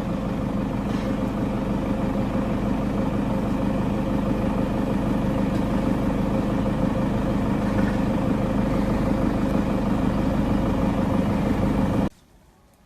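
A steady mechanical hum, like a motor or engine running at constant speed, with a low drone. It cuts off abruptly near the end.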